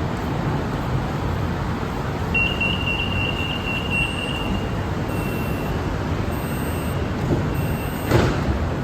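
BTS Skytrain EMU-A2 electric train running past with a steady rumble. A high, steady tone starts about two and a half seconds in and then returns three more times, more faintly. A sharp click comes near the end.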